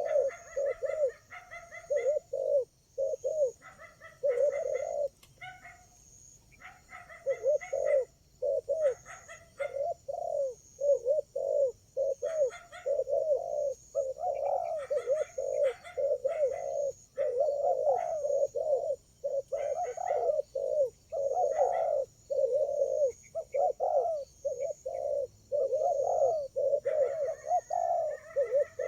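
Spotted doves cooing over and over, several birds calling in quick succession, with short chirps of other birds in between and a steady high buzz behind.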